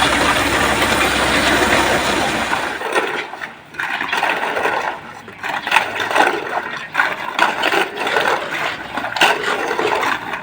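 Concrete mixer truck's engine running steadily, its low hum dropping away about three seconds in. Then wet concrete slides out in uneven, splashing gushes.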